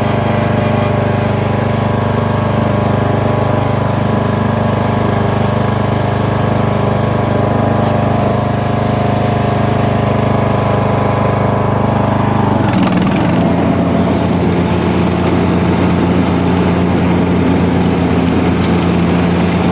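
Craftsman DLS3500 riding lawn mower's engine running steadily; about two-thirds of the way through its note changes abruptly to a different steady speed. The engine is freshly revived after sitting, still burning off oil.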